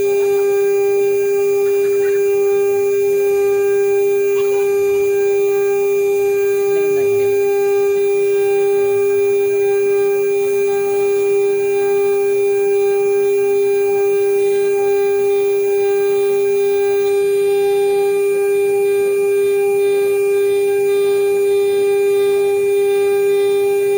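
CNC router spindle running with a steady high whine at one constant pitch.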